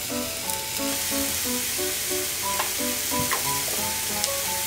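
Halved deodeok roots sizzling steadily in a little oil in an enameled cast-iron skillet. This is the first plain grilling, before the gochujang sauce goes on, so the sauce will not burn. Background music plays over it.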